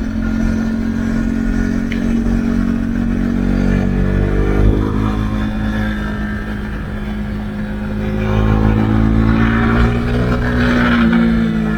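Husqvarna Svartpilen 401's single-cylinder engine through an Akrapovic exhaust with the dB-killer removed, running under fairly steady throttle while riding. It gets louder and a little higher in pitch for a few seconds near the end, then drops away.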